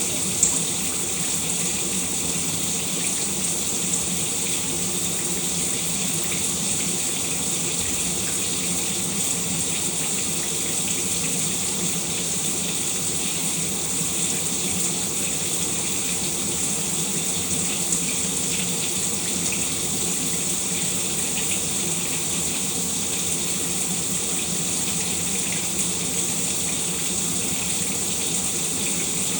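Shower water running steadily, spray falling in an even hiss, with one brief sharp tick just after the start.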